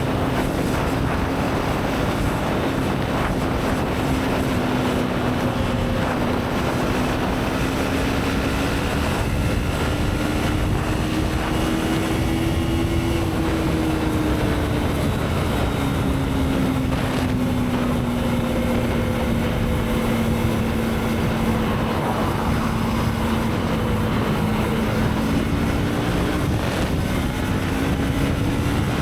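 Motorcycle engine running under way with wind rushing over the microphone; the engine note slowly rises and falls as the throttle changes, climbing to a peak about twelve seconds in and dropping again before rising near the end.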